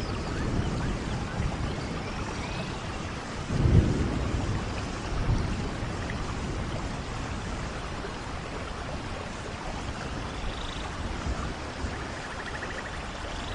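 Steady rainfall with low rumbles of thunder, the strongest about four seconds in.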